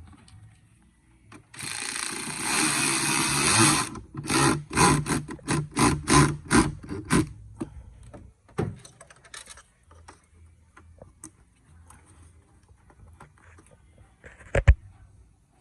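Ford Escape's 3.0 V6 being cranked over and started after new spark plugs, with a run of loud surges for a few seconds before it drops to a faint low running sound.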